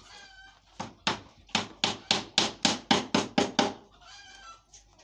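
A hammer driving nails into the wooden parts of a top-bar beehive: a quick run of about eleven sharp blows, coming faster toward the end.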